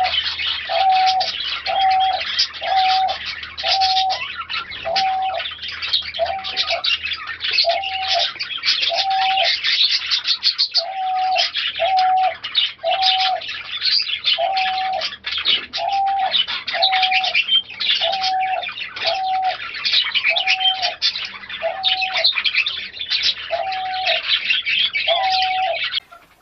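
Diamond dove cooing over and over, a short even coo about once a second, over a busy background of small cage birds chirping and twittering. Both stop abruptly near the end.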